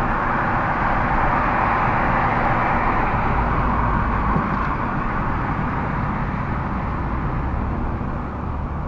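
Steady road and engine noise of a car driving, heard from inside the cabin; it eases slightly near the end.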